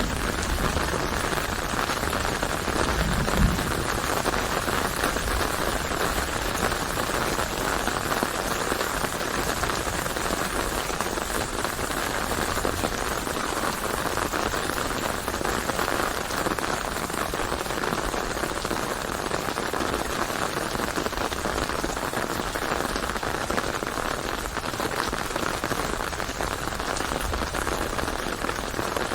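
Steady rain pattering on a surface, an even, unbroken hiss, with a brief low thump about three seconds in.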